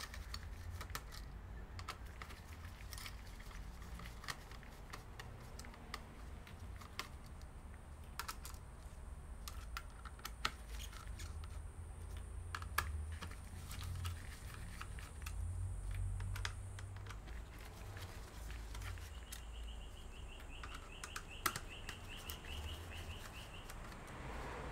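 Irregular small clicks and taps of plastic laptop parts and small tools being handled during disassembly, over a low hum, with a short faint pulsing whine near the end.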